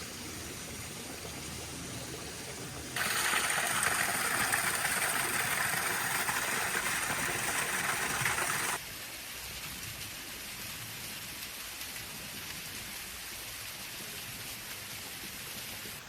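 Steady hiss of falling water, with no pitch or rhythm. About three seconds in it jumps abruptly much louder and brighter, and it drops back just as suddenly near the middle.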